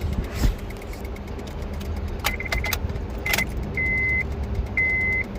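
Car keys jangling and clicking in the ignition, then a car's high warning chime beeping steadily about once a second, over a low steady hum.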